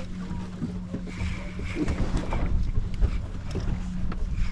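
A small boat's outboard motor runs steadily at low speed, with wind buffeting the microphone. Scattered knocks and splashes come from water slapping the hull.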